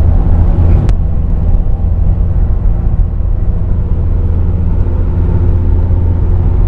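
A car driving: a steady, low engine and road drone, with one sharp click about a second in.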